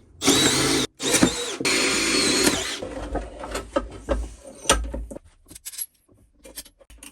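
Power drill running in two bursts while the vise is being bolted to the workbench, the second burst longer, followed by a few scattered knocks and clicks.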